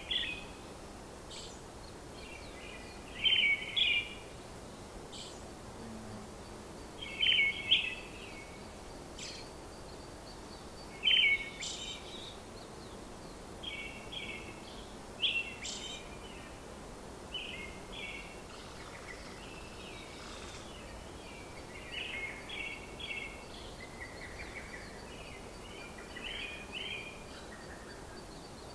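Birds chirping in short clusters every few seconds over a steady background hiss.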